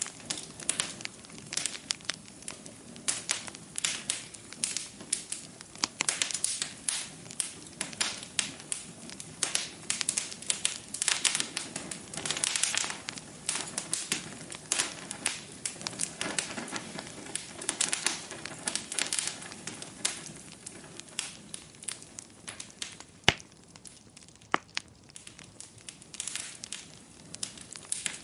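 Wood fire crackling in a fireplace: a dense stream of snaps and pops over a low steady rush of burning. Late on the crackling thins out, and one sharp snap stands out louder than the rest.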